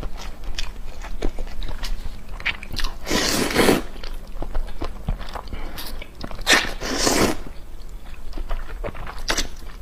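Close-up eating sounds of egg and noodles: wet chewing and mouth clicks, with two longer, louder stretches of noise about three and seven seconds in.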